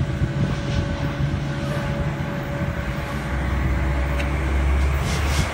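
Low, steady rumble of an approaching diesel commuter train, growing louder toward the end.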